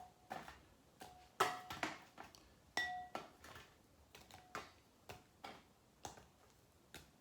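Chicken wings being dropped one at a time into a bowl: a string of short, irregular knocks about two a second, several setting the bowl ringing briefly.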